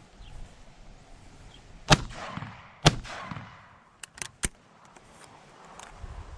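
Two shotgun shots about a second apart, each echoing briefly, followed a second later by three quieter clicks.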